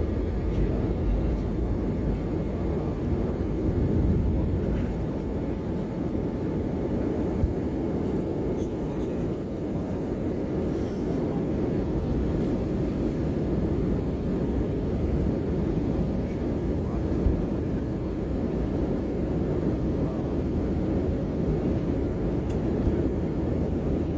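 Steady low rumble of a jet airliner's cabin in flight, engine and airflow noise holding level.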